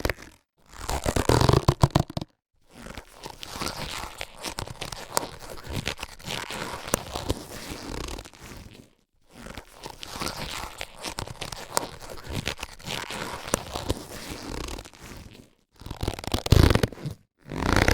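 Latex surgical gloves being handled: stretched and rubbed with a rubbery crackling and squeaking. Louder bursts come about a second in and again near the end, with longer, quieter stretches of rubbing between them, broken by short pauses.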